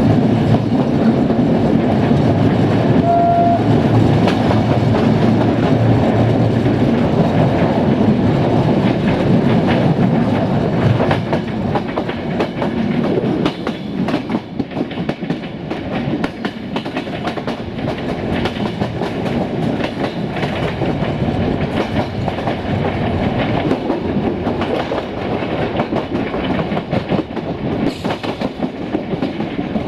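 Passenger train coaches rolling at speed, heard from an open coach window: steady rolling noise with wheels clicking over rail joints. There is a short high tone about three seconds in, and the sound gets somewhat quieter about eleven seconds in.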